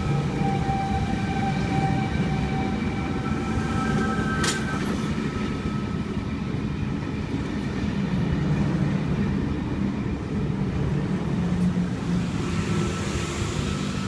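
NSW TrainLink V-set double-deck electric train rolling into the platform: a steady low rumble with thin high tones over it for the first few seconds, and one sharp click about four and a half seconds in.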